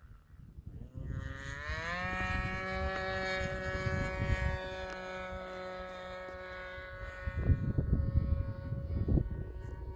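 Electric ducted fan of a Viper 90 mm RC jet spooling up in a rising whine over about a second, then holding at a steady pitch. Wind gusts rumble on the microphone, loudest near the end.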